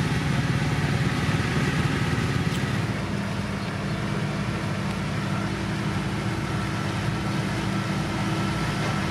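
Diesel engine of a heavy road-construction machine running steadily, its note and level dropping slightly about three seconds in.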